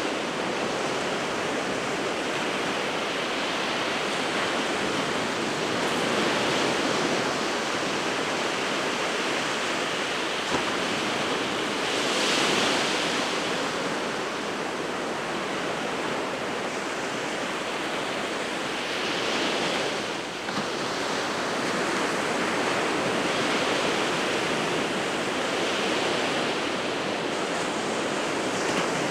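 Surf on the winter Sea of Japan: a continuous rush of breaking waves that swells and eases every few seconds, with a louder surge about twelve seconds in.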